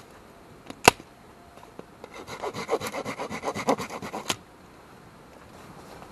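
A small hand saw cutting through a branch of firewood: a burst of quick, even back-and-forth strokes lasting about two seconds, following a single sharp crack about a second in.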